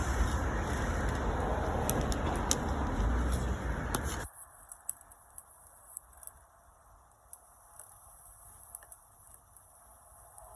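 Wood bonfire crackling, with scattered sharp pops. A steady low rumble runs for about the first four seconds and then cuts off abruptly, leaving the crackles faint.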